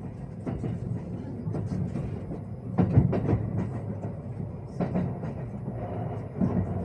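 Train running through a station: a steady low rumble with irregular sharp knocks, the loudest about three seconds in.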